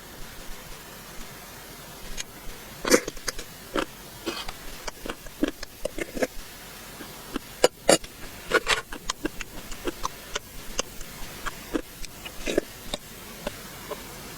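Close-miked eating sounds: irregular sharp clicks, smacks and crunches of chewing and mouth noises, some coming in quick runs.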